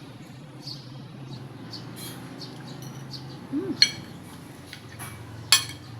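Tableware clinking sharply twice, near four seconds in and again about a second and a half later, over a steady low hum, with faint short bird chirps.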